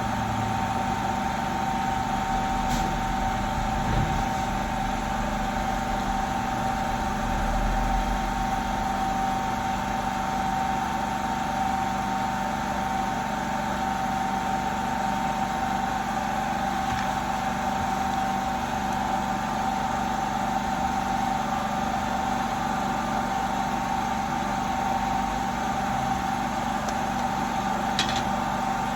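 A small electric machine runs with a steady hum and a constant whine that does not change pitch. A couple of faint ticks come near the end.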